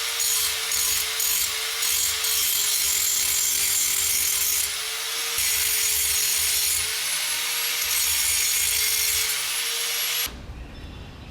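Angle grinder with a sanding disc grinding a metal bucking-dog blank to shape: a steady motor whine under a loud grinding hiss. It dips briefly twice, then stops suddenly about ten seconds in.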